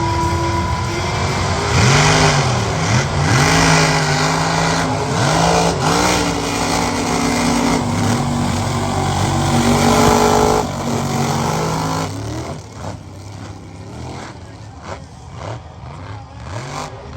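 Mega truck engines running at full power through a mud race. The pitch climbs and drops several times as the trucks rev and shift, then the sound falls away quieter about twelve seconds in.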